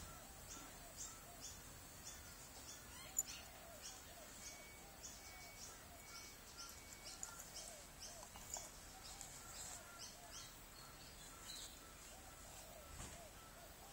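Faint bird chirps in the background, short high calls repeating about twice a second, with a single sharp click about three seconds in.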